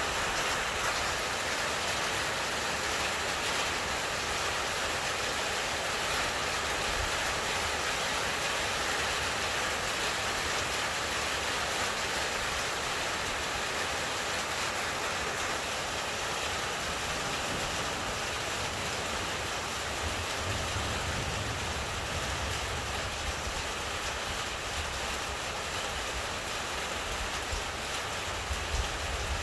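Heavy thunderstorm rain pouring steadily, a dense even hiss, with low rumbling swells about two-thirds of the way through and again near the end.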